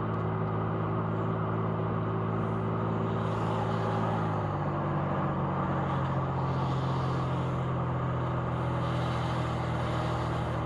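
Steady engine hum and road noise of a car being driven, heard from inside the cabin. The engine note shifts slightly about four and a half seconds in.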